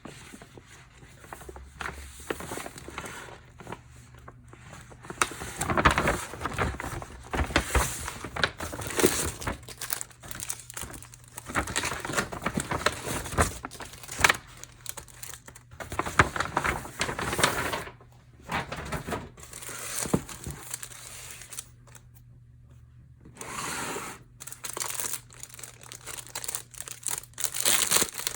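Plastic and paper packaging crinkling and rustling as it is handled and opened, in irregular bursts with some tearing, and a brief lull about two-thirds of the way through.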